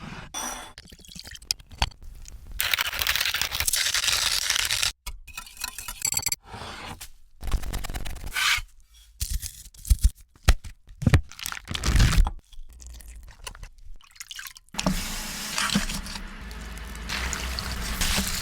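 A run of food-preparation sounds in quick cuts: scraping, liquid pouring and dripping, and a cluster of sharp knocks about two-thirds of the way through.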